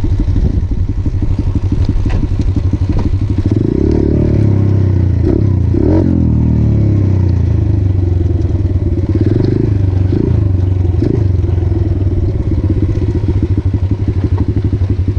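Motorcycle engine running, its note rising and falling a few times about a third of the way in and again about two-thirds of the way in, as the throttle is worked.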